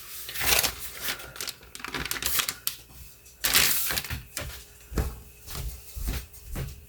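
Kitchen utensils clicking and clattering irregularly against pans and dishes, with short rustles, while shredded beef tacos are assembled.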